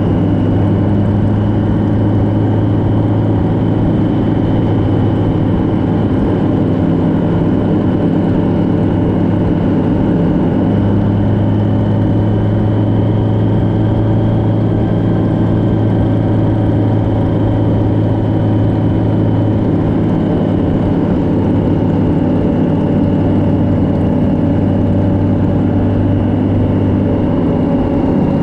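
Vehicle engine running at a steady cruise, a constant low drone with a thin high whine above it and a slight change in engine note now and then.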